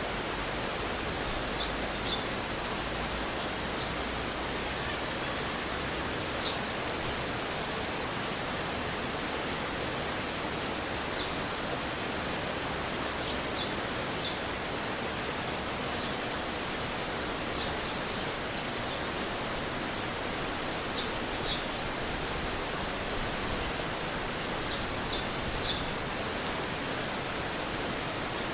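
Mountain stream rushing steadily, with short high chirps every few seconds above the water.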